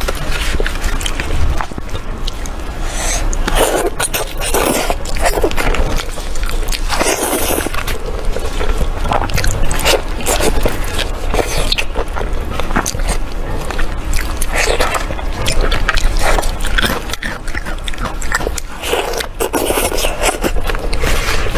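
Close-miked eating: repeated bites and chewing with many sharp clicks.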